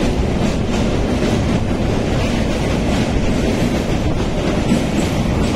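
Train running over a steel truss rail bridge, heard from the coach doorway: a loud, steady rumble of wheels on rails with a repeated clatter of clicks running through it.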